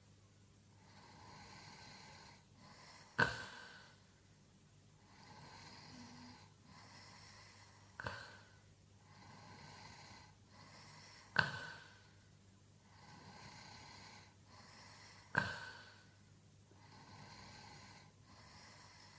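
A sleeping person snoring: four loud snores that each start suddenly and fade over about a second, coming roughly every four seconds, with softer breathing between them.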